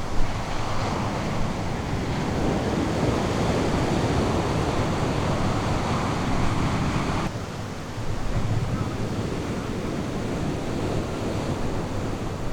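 Ocean surf washing onto a beach: a wave swells over several seconds and the rush of water drops off abruptly about seven seconds in, then the wash goes on more softly. Wind rumbles on the microphone underneath.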